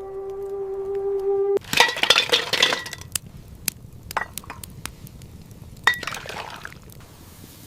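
A steady held tone that cuts off abruptly about one and a half seconds in, followed by dishes clinking: a quick flurry of ringing clinks, then a few separate clinks.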